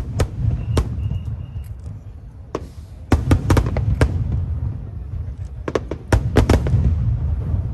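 Aerial fireworks shells bursting over a continuous low rumble. Single sharp bangs come early, then rapid clusters of several bangs about three seconds in and again about six seconds in.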